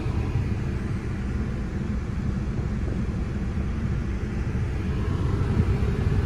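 Steady low rumble of a touchless automatic car wash's machinery running, heard from inside the car's cabin.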